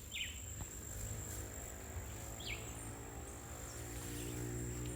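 A steady high-pitched insect drone, like crickets, with a bird giving two short falling chirps, one right at the start and another about two and a half seconds in.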